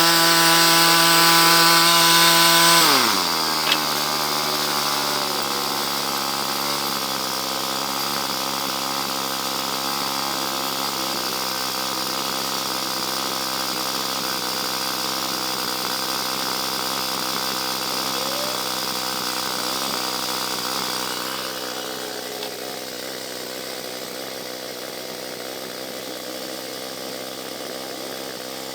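Gasoline engine of a portable bandsawmill running fast, then dropping to a lower, steady speed about three seconds in, with a single click just after. It runs on steadily and grows quieter a little after twenty seconds.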